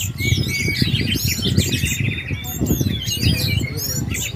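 Many caged orange-headed thrushes singing at once: a dense tangle of rich, gliding whistled phrases overlapping one another, over a steady low background rumble.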